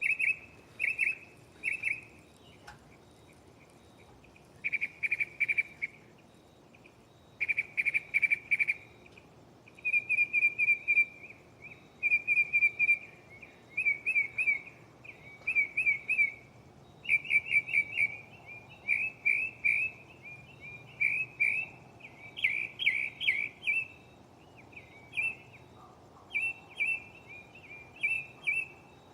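Northern mockingbird singing, running through its mimicked repertoire: each phrase is a quick chirp or trill repeated several times before it switches to a different one, with a couple of short pauses.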